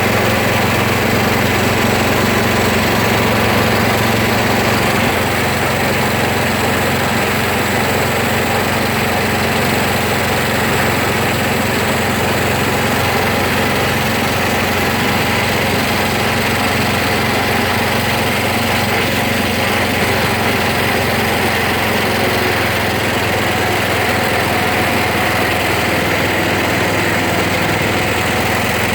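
A small engine running steadily at an even speed, with a constant drone that neither rises nor falls.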